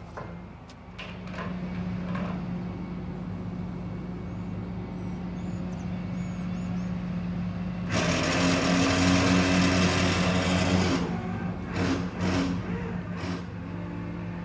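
A vehicle engine running steadily through a mud recovery of a stuck pickup truck. From about eight seconds in, a louder rushing noise lasts about three seconds, then the steady engine sound continues.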